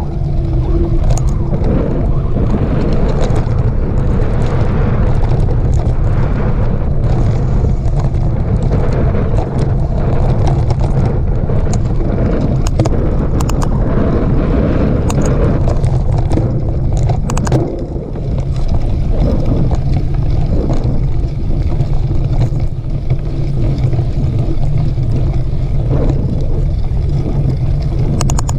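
Steady wind rumble on the microphone with scattered clicks and rattles, typical of a mountain bike ridden fast over a dirt trail.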